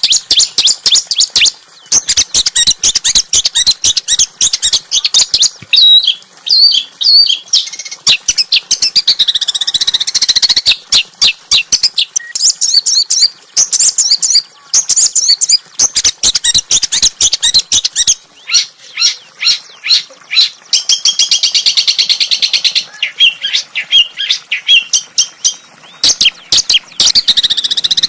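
A small songbird's sharp, rough song: fast, high-pitched chattering notes and rapid trills that run almost without pause. This is a recorded 'masteran' song of the kind used to train caged songbirds and provoke them into singing.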